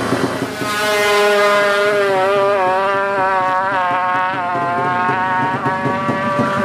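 Drag-racing motorcycle engine held at high revs: one loud, steady note that comes in about a second in, wavers a little and sags slightly in pitch before dropping away near the end.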